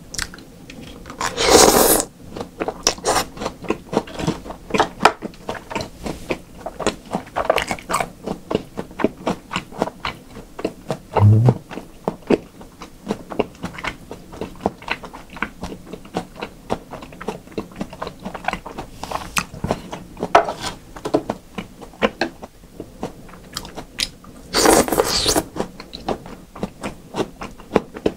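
Close-miked chewing of yukhoe, Korean seasoned raw beef strips: a steady run of small wet mouth clicks and smacks. Two louder half-second bursts of mouth noise come about a second and a half in and again near the end, and a single soft low thump falls near the middle.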